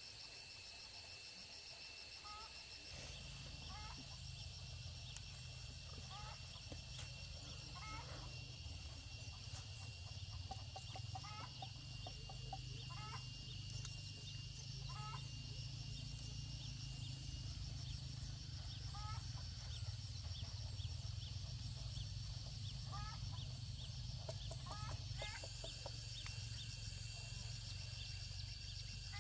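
Chickens clucking, short calls every second or two, over steady high-pitched tones and a low rumble that comes in a few seconds in.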